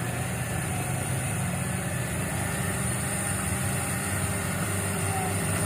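Diesel truck engine running steadily with a low, even hum.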